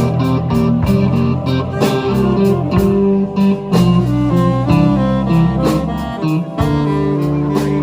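Live slow blues with guitar playing lead lines over bass and drums, without vocals.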